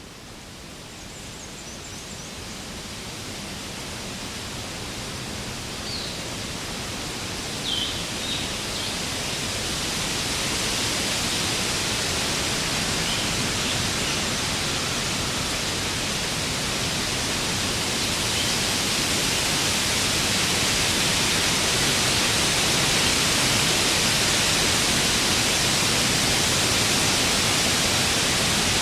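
Warm wind blowing steadily, a broad even rush that swells up from quiet over the first ten seconds or so and then holds. A few faint short chirps, like distant birds, come through early on.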